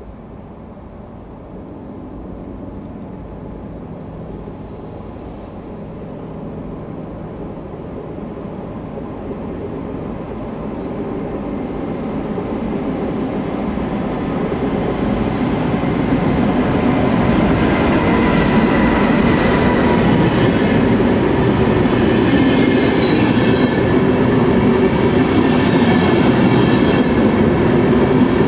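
VR Sr3 (Siemens Vectron) electric locomotive and double-deck InterCity coaches approaching and running past along the platform. The rumble grows steadily louder, and a high whine joins in about halfway through.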